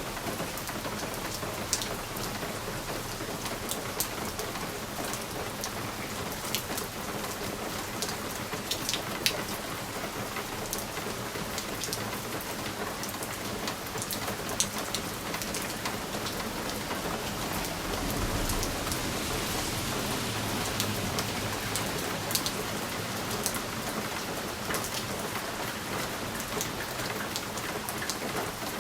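Rain pattering steadily on a window pane, with many sharp individual drop ticks over an even hiss. A low rumble swells up about two-thirds of the way through and then fades.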